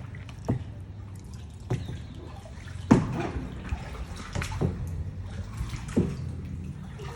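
Kayak paddle blades dipping into lake water in a steady rhythm, five splashing strokes with water dripping and trickling from the blades between them.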